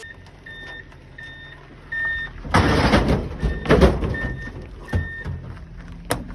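Vehicle reversing alarm beeping at an even pace, about once every three-quarters of a second, over a low engine rumble. A loud burst of rough noise rises over it for about a second and a half, starting about two and a half seconds in.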